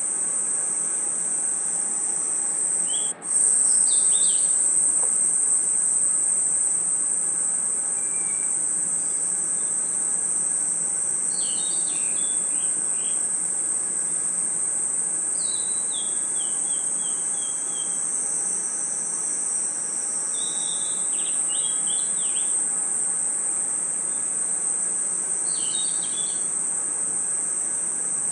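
Night chorus of crickets and other insects: a steady, high-pitched shrill trill, with short chirping phrases breaking in every few seconds. The chorus drops out for an instant about three seconds in.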